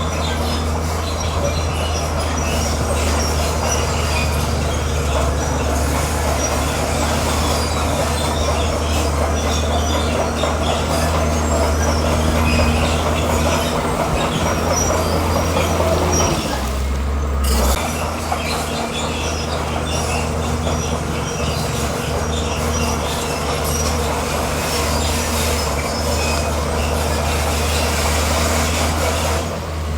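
Komatsu bulldozer at work pushing rock: its diesel engine runs steadily under load while the steel tracks squeal and clank. The squeal and clatter drop out briefly about halfway through, then carry on.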